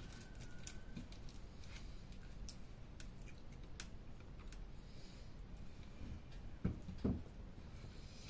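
Wood campfire crackling, with scattered sharp pops and two louder thumps close together near the end.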